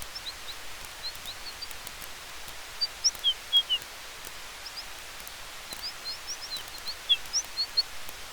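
Campfire and forest ambience: a steady soft hiss with faint high crackle ticks, and small high bird chirps in two clusters, around three seconds in and again from about six seconds.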